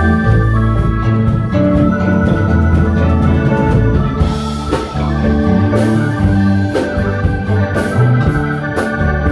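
A live band playing: held keyboard chords, organ-like, over a moving bass line, with steady drum and cymbal hits.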